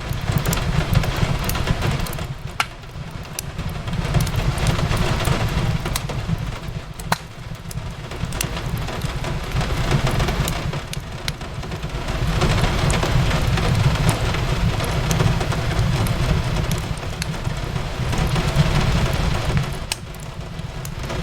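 Steady rain mixed with the occasional sharp crackle and pop of a wood fire, over a deep low rumble that swells and eases every few seconds.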